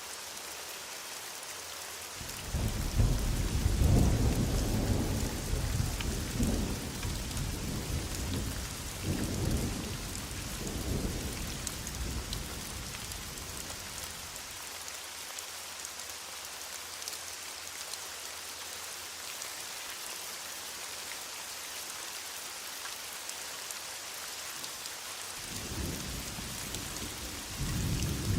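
Heavy rain falling steadily, with a long roll of distant thunder starting about two seconds in and dying away over some ten seconds, and another rumble building near the end.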